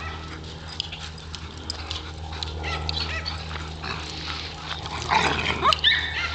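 Several dogs playing rough, with short high vocal sounds scattered throughout and a louder flurry about five seconds in. A steady low hum runs underneath.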